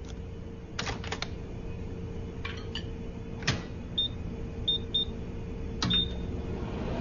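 Microwave oven being set: a few clicks and knocks of handling and the door, then four short high beeps as its keypad buttons are pressed.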